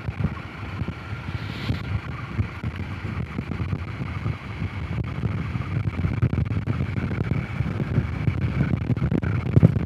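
Honda CRF 250 Rally's single-cylinder four-stroke engine running under way over a bumpy gravel track, with wind buffeting the microphone; the loudness rises and falls unevenly.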